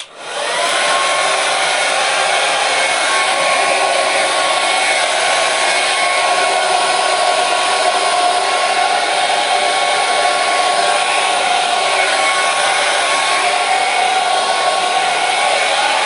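Hair dryer running: its motor spins up within the first second, the pitch of its whine rising and then settling, and it then blows steadily, an even rush of air with a faint constant whine.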